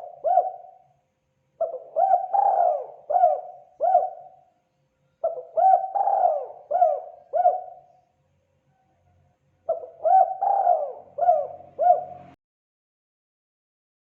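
Spotted dove (terkukur) cooing: repeated phrases of about five short, arching coos, each phrase about two seconds long with short pauses between. The last phrase cuts off abruptly near the end.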